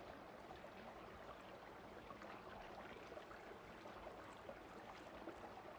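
Faint, steady running water of a small stream.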